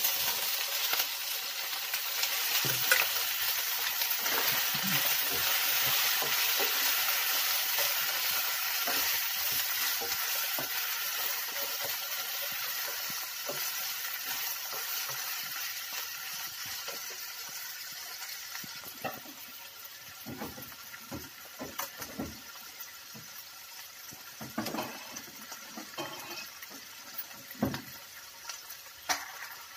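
Boiled chicken pieces sizzling as they hit a hot frying pan of sautéed garlic and onion, the sizzle loud at first and dying down over the second half. A wooden spatula scrapes and knocks against the pan as the chicken is stirred.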